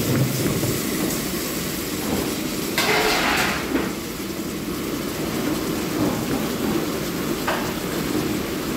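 Cubes of fish frying with sliced garlic in a pan, sizzling steadily over a constant low rumble, with a brief louder hiss about three seconds in.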